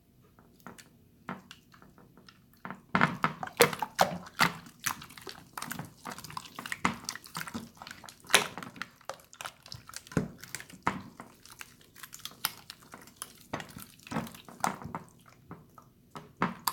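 Hands squeezing and poking a watery, jiggly water slime, making an irregular run of wet squelches, pops and clicks that grows busier about three seconds in.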